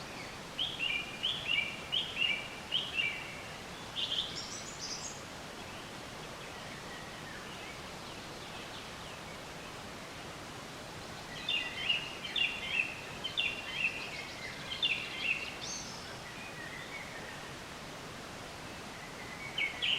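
A songbird singing in bouts of quick repeated chirping notes: one phrase at the start, another in the middle, and a third beginning near the end. A steady hiss of outdoor background lies underneath.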